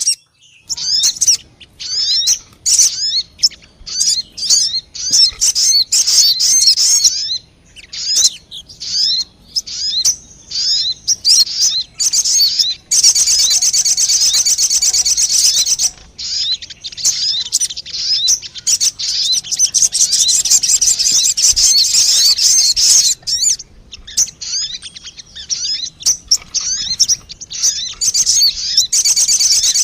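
Sogon bird lure call: quick, high-pitched chirps in rapid runs, with long unbroken trills about halfway through and again near the end.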